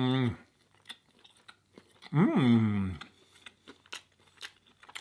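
A man chewing a mouthful of ciabatta breakfast sandwich, with small wet mouth clicks, and humming 'mmm' twice: once trailing off just after the start, and once about two seconds in with the pitch rising and then falling.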